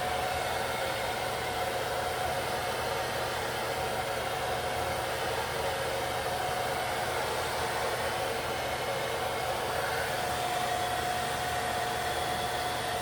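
Handheld hair dryer running steadily on its low setting, blowing close to the skin to dry the adhesive under a lace wig's edge. It makes an even rushing sound with a faint steady tone.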